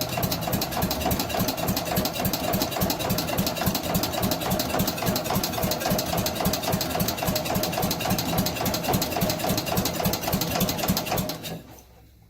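The Allis Chalmers Big Ten's Briggs & Stratton engine being cranked on the starter, with its carburetor removed, in a fast, even chugging rhythm for about eleven seconds, then it stops without the engine catching.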